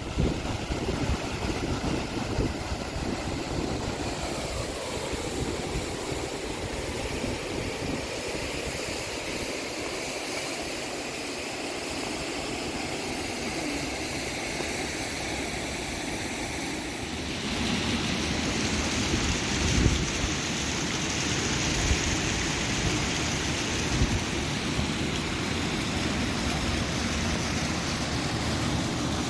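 Wind buffeting the microphone over a steady rushing noise, which grows louder and brighter about seventeen seconds in.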